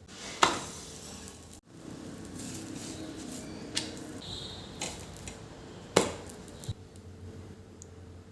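A few sharp knocks and clinks of hard household objects being handled and set down, the loudest about six seconds in.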